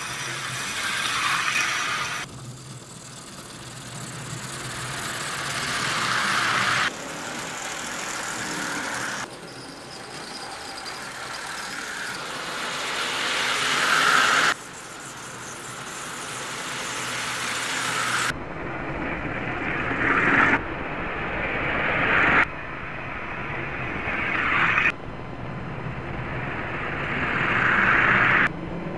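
HO slot-car trucks running on the track, their small electric motors and wheels making a steady whirring buzz. The sound grows louder as each truck approaches, then cuts off abruptly, about ten times in a row.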